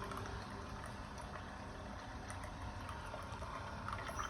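Keurig single-serve coffee maker brewing, coffee streaming and gurgling into the cup, with a low hum through the first half.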